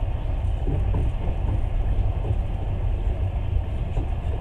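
Passenger train running at speed, heard from inside the carriage: a steady low rumble of the car and its wheels on the rails.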